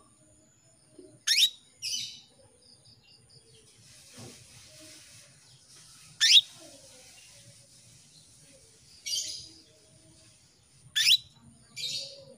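Female canary calling to a male, a hen in breeding condition: a sharp, fast upward-sweeping call followed by a rougher chirp, three times about five seconds apart.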